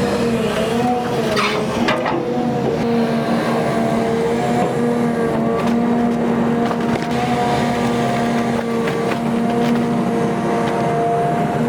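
XCMG XE310GA excavator's engine running steadily under work, a constant pitched drone, with a few knocks about a second and a half in.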